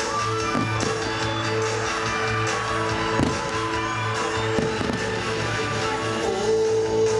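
Guitar-led pop-rock music playing over loudspeakers at a fireworks show, with several firework bursts booming and crackling over it a few seconds apart.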